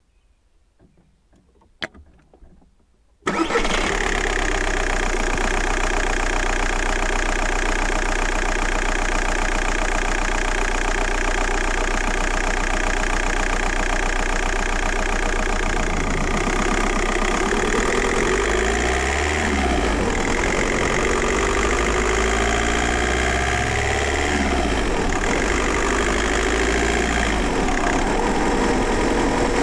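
A single click, then a VW Golf Mk4's 1.9 TDI four-cylinder diesel (AJM) starts after a short crank, about three seconds in, and settles into a steady diesel idle through a straight-piped exhaust. For several seconds in the second half the engine note shifts up and down in pitch.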